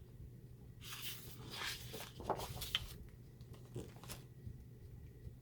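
Paper cut-aparts and scrapbook paper rustling and sliding as they are handled, in several short bursts.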